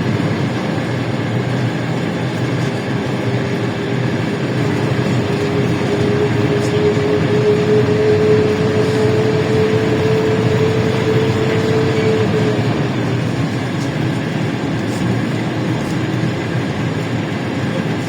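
LiAZ-677M bus with its V8 petrol engine, heard from inside the cabin while driving: steady engine and road noise. From about three seconds in a whine slowly rises in pitch, then fades out after about twelve seconds.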